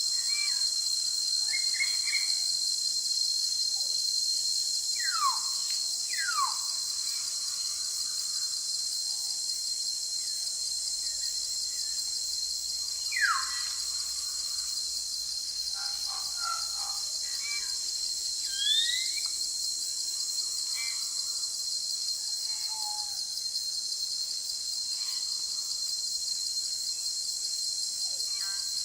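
Forest ambience: a steady, high-pitched insect chorus throughout, with scattered bird calls over it. These include clear whistles sliding downward about five, six and thirteen seconds in, a couple of rising whistles around eighteen seconds, and short chirps.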